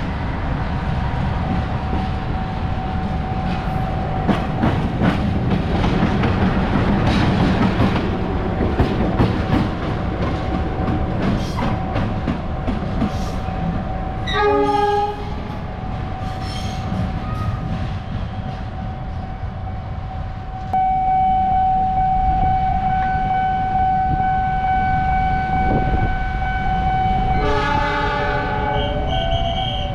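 Train moving through a station with a steady rumble and wheels clicking over the rail joints in the first half. A locomotive horn sounds briefly about halfway through, and again for a longer blast near the end.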